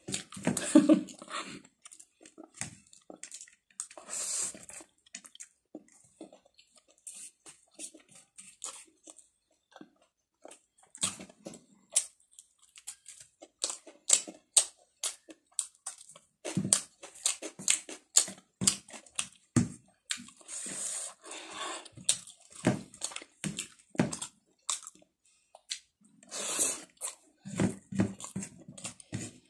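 Close-up chewing of rice and whole dried red chilli eaten by hand: irregular wet smacks and crisp clicks from the mouth, on and off with short pauses.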